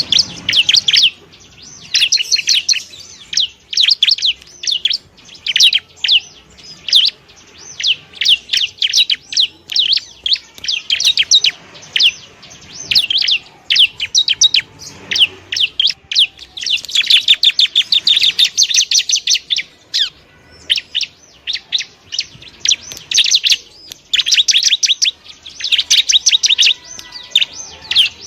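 Bar-winged prinia (ciblek) singing: rapid runs of high, sharp chirps and trills in dense bursts, broken by short pauses.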